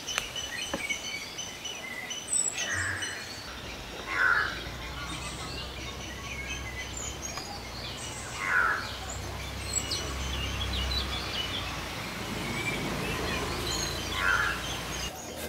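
Birds chirping and calling over steady outdoor background noise.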